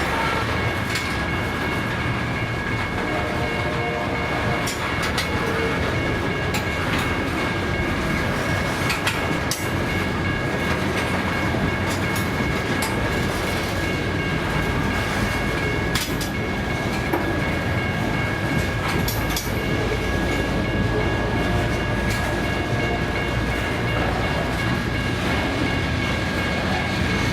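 A long loaded rock train's freight cars rolling past in a steady rumble of steel wheels on rail, with irregular clicks as wheels cross rail joints. A steady high ringing tone sounds throughout.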